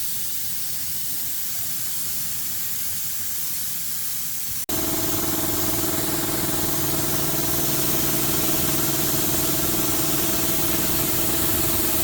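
Steady hiss of a pressurised spray. After an abrupt cut a little before the halfway point, a louder hiss runs together with the steady hum of a motor.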